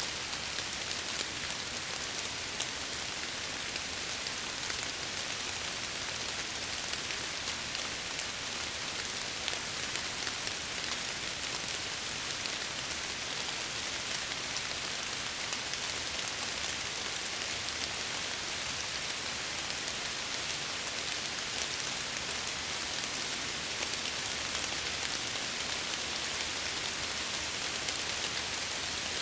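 Steady rain falling on window glass, an even hiss with fine drop patter that holds constant.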